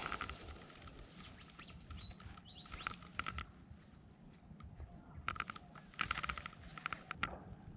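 Quiet open-air ambience with a few faint, short bird chirps and scattered small clicks and patters.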